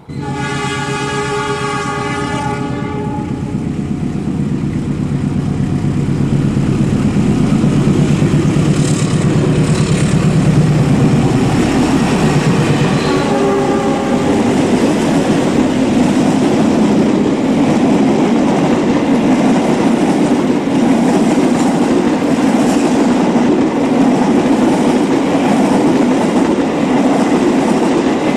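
Diesel locomotive horn sounding a chord for about three seconds. Then a train passes close by, its engine and wheels on the rails making a loud, steady rumble. A brief, fainter horn comes about halfway through.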